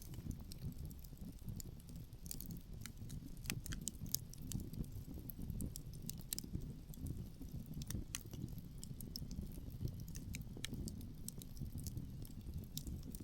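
Wood fire crackling, with many small sharp pops at irregular moments, over a low, constant rumble of wind.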